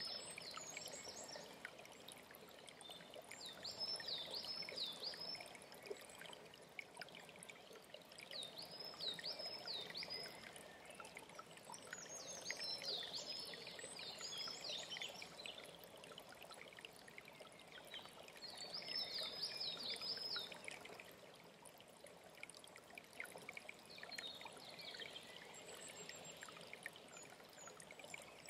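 A songbird repeats a short song of several high, swooping notes every four to five seconds over a steady stream of running water.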